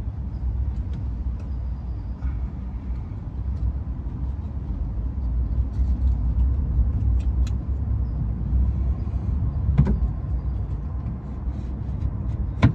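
Steady low vehicle rumble, with scattered light clicks and taps and one sharper knock about ten seconds in.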